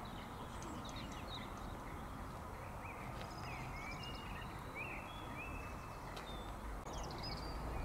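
Small birds chirping, with short quick calls repeating through, over a steady background hum of outdoor noise.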